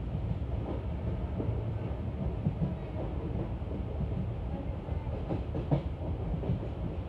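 Passenger coach running at speed on the track: a steady wheel-and-rail rumble with irregular clacks and knocks from the rail joints, the sharpest knock about six seconds in.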